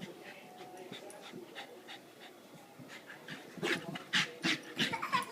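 A dog panting, the breaths growing louder over the last two seconds at about three a second.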